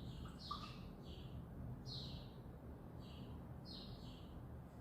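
A small bird chirping faintly over and over: short, high chirps that drop in pitch, coming in twos and threes about once a second.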